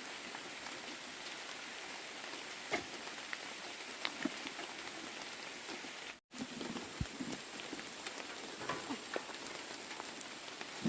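Steady outdoor hiss, like light rain, with scattered faint taps and clicks; the sound cuts out for an instant about six seconds in.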